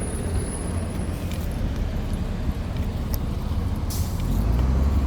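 Road traffic running steadily, a low rumble that swells near the end as a vehicle passes close, with a short hiss about four seconds in.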